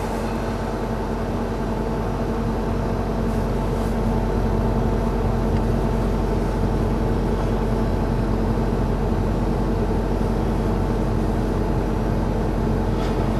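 2008 Kia Rio's four-cylinder engine idling steadily just after a cold start at about zero degrees Fahrenheit.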